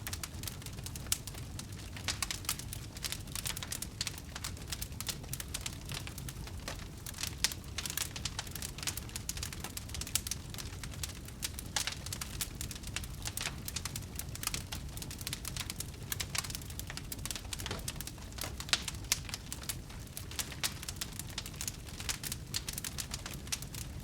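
Wood fire crackling steadily, with many quick, irregular pops and snaps over a low, even rumble.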